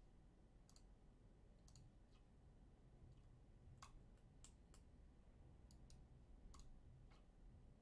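Near silence with faint, irregular clicks, about a dozen scattered through.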